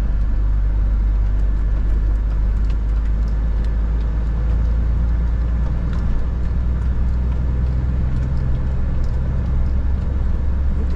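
Scania R 450 truck's inline-six diesel running steadily under way, a deep continuous drone. A slightly higher hum joins it in the middle.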